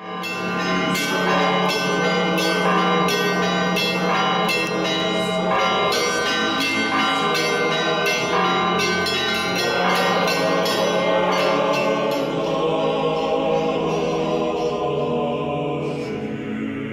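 Church bells ringing in a rapid peal, many struck bells ringing over a steady low sustained tone, as opening music. The strikes thin out and the peal dies away over the last few seconds.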